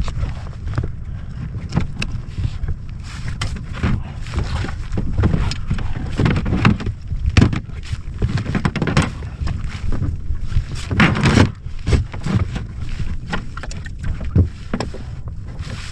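Wind buffeting the microphone on a small boat, with a steady low rumble and many irregular knocks and splashes of water against the hull.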